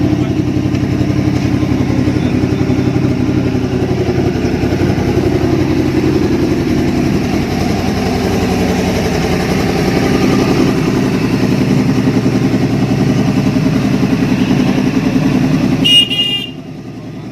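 Yamaha R1 superbike's inline-four engine running at a steady, fairly constant speed. About sixteen seconds in the engine sound stops abruptly with a sharp spike, and a high wavering tone follows.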